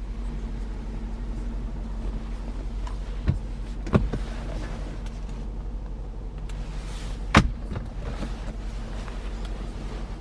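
Steady low hum in a car cabin, broken by three short sharp clicks: one about three seconds in, another a moment later, and the loudest past the middle.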